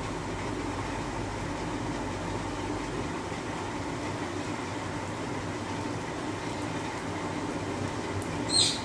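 Egg omelette frying on a hot iron tawa, a steady sizzle with a low hum beneath that drops away about three seconds in. A brief sharp sound near the end.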